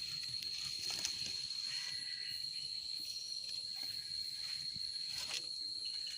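Night insects calling in a steady, unbroken high-pitched trill, with a few faint clicks.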